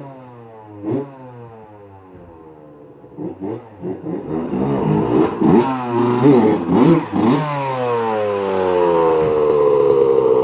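Honda CR80 two-stroke dirt bike engine running. Its speed sags at first, then it is revved in several quick throttle blips about halfway through, and it settles into a steady, louder run near the end.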